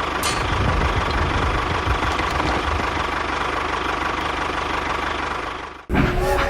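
Engine running steadily with a low, knocking rumble. It cuts off abruptly near the end and a different, choppy mechanical sound takes over.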